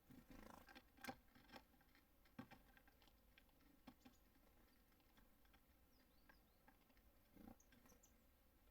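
Near silence with faint scattered taps and clicks from small birds landing and pecking at a feeder, and a few faint short high calls near the end.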